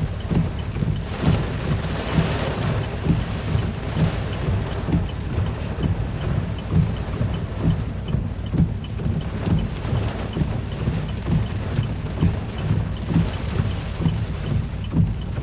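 Hurricane rain and gusting wind beating on a car, heard from inside the cabin: a steady rush of rain with irregular low rumbling gusts.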